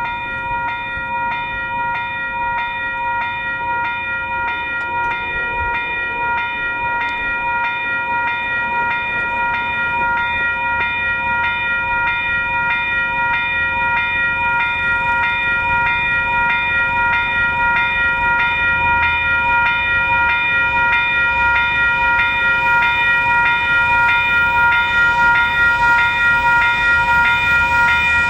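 Western Cullen Hayes electronic level-crossing bells ringing with fast, evenly repeated strikes, getting slowly louder: the crossing is activated for an approaching train. A low rumble builds in the second half.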